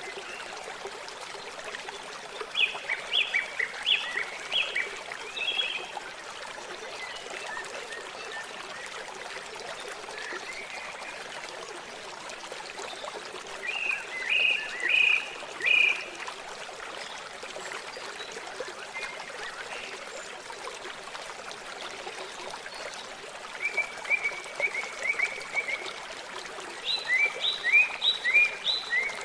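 Steady rush of flowing or lapping water, with a songbird singing short phrases of quick, repeated high notes four times: early on, about halfway through, and twice near the end.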